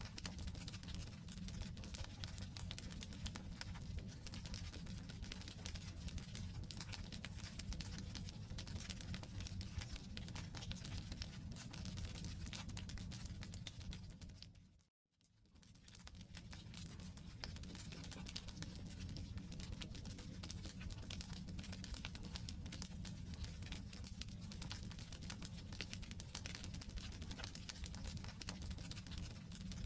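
Wood campfire burning, with dense, continuous crackling and popping over a low rumble. About halfway through the sound fades out to silence for a moment and fades back in.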